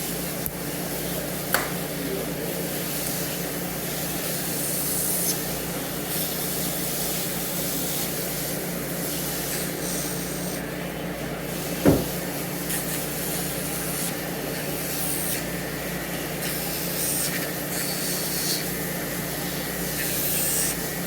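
Show Tech cordless nail grinder running steadily with a quiet, even hum while its bit grinds a dog's toenail, the high grinding hiss coming and going with each pass; a single sharp click about twelve seconds in.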